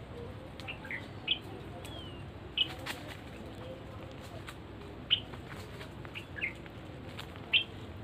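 Birds giving short, sharp chirps, about eight in all at irregular spacing, with faint clicks between them.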